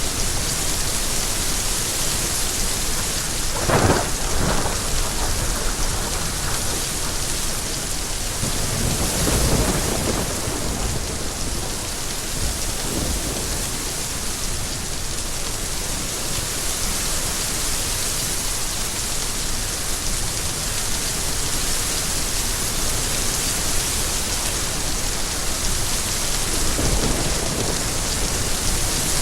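Steady rain with thunder: a sharp crack about four seconds in, a rumble around ten seconds, and another low rumble near the end.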